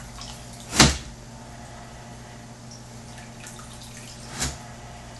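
Water dripping and trickling over a steady low hum, typical of an aquarium vacuum cleaner working in a tank. Two short, loud splashy bursts break through, one about a second in and a quieter one near the end.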